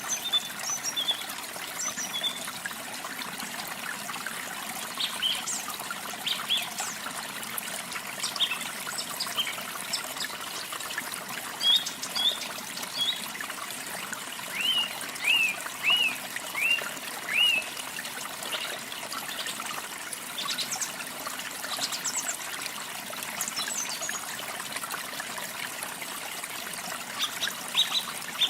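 Steady trickling and splashing of a small waterfall, with songbirds chirping over it in short scattered calls. About halfway through, a bird gives a run of about five quick falling notes.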